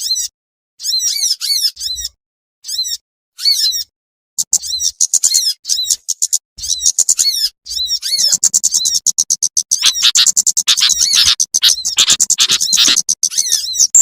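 Bird-lure recording of small songbirds calling: short bursts of sharp, high chirps about once a second, then from about four seconds in a fast, unbroken chattering that grows denser and louder.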